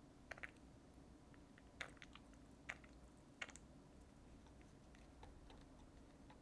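A handful of light, sharp clicks and taps over a faint steady room hum. Most fall in the first half, and a few fainter ones come later.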